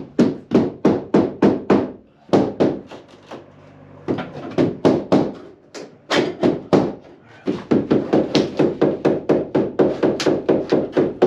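Rapid knocking in five runs of quick, even strokes, about three to four a second, with short pauses between the runs; the longest run comes near the end.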